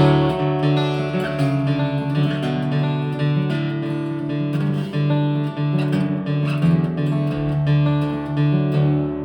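Instrumental ending of a song: acoustic guitar strumming chords, with a sharp strum at the start.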